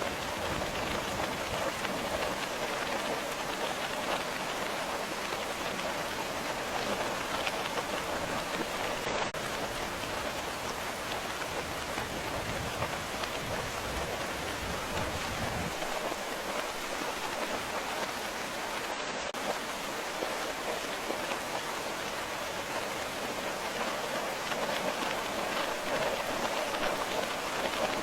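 Steady, dense rainfall, an even hiss of drops with no let-up. A low rumble sits under it for the first half and drops away a little past halfway.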